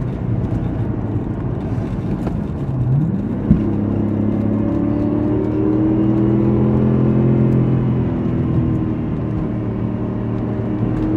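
Audi S6 Avant's V8 engine pulling hard up a mountain road. About three seconds in its pitch dips and then rises sharply, with one sharp knock, and it then climbs steadily as the car accelerates.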